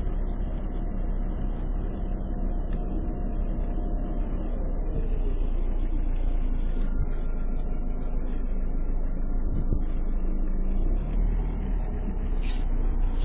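A car's engine and tyre noise heard from inside the cabin while it is being driven: a steady low rumble.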